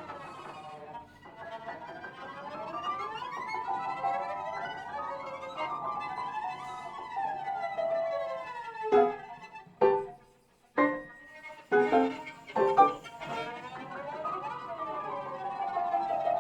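Piano trio of violin, cello and piano playing contemporary chamber music: overlapping sliding glissandi for about eight seconds, then several sharp accented strokes separated by short pauses, one nearly silent, before the sliding lines resume.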